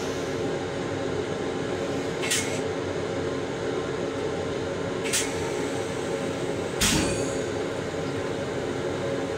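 Long Island Rail Road M7 electric railcar running, heard from inside its small restroom: a steady rumble and hum, broken by three short hisses about two, five and seven seconds in. The last hiss comes with a low thud.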